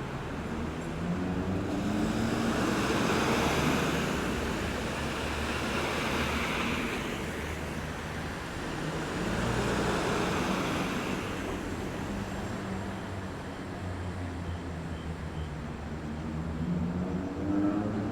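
Road traffic at a roundabout: cars pass one after another, each a swell of tyre and engine noise, over a steady low engine hum. Near the end an engine note rises as a vehicle accelerates away.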